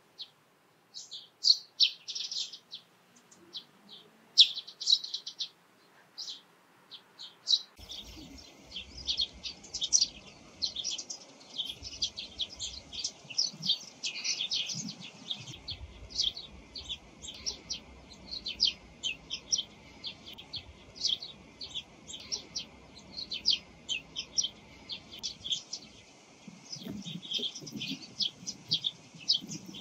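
Small wild songbirds chirping. There are scattered high calls at first, then from about eight seconds in a dense chorus of many overlapping chirps.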